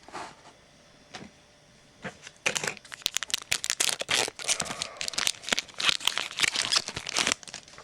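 Trading card pack wrapper being torn open and crinkled in the hands. The crackling starts about two and a half seconds in, runs as a dense rapid crackle, and stops shortly before the end.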